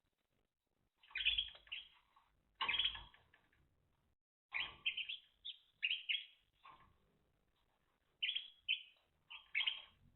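Timbrado canaries chirping in short bursts, about eight of them, with brief pauses between.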